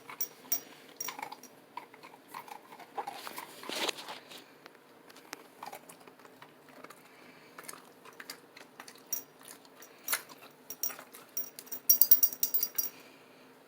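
A 4-month-old puppy moving and playing close to the microphone: scattered light clicks, scuffles and rustles, with a brief metallic jingle about twelve seconds in.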